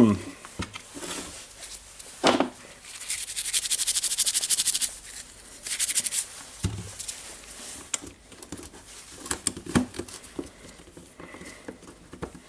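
A small brush scrubbing dust from the plastic housing and switch of a Makita impact driver, with a run of rapid bristle strokes about three seconds in and a shorter run a second later, and a few knocks from the parts being handled.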